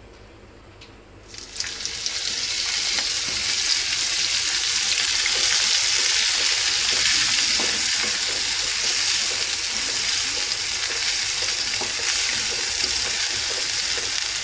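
Chopped spring onions sizzling in hot oil in a kadhai, starting about a second and a half in as they hit the oil and staying loud and steady while a wooden spatula stirs them.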